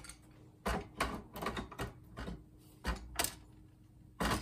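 Irregular sharp clicks and snaps, about nine of them, as capacitors are stripped off their legs on a monitor's circuit board.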